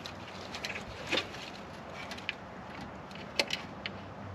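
A few light clicks and taps of hand work on the engine's ignition parts, the sharpest about a second in and two more close together past the three-second mark, over a faint steady hum.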